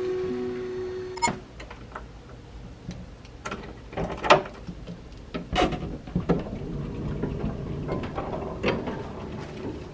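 Flute background music fades out, followed by scattered, irregular clicks and knocks over a low rumble.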